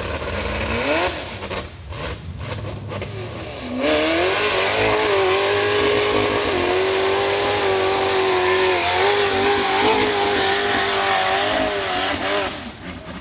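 Rock bouncer race buggy's high-horsepower engine revving: a brief rev about a second in, then, from about four seconds, a loud sustained run at high revs with small rises and dips, falling away near the end.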